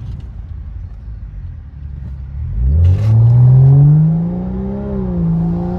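Straight-piped BMW F10 5 Series exhaust: a low rumble at light throttle, then about two and a half seconds in the engine note climbs sharply under acceleration and holds as a steady loud drone.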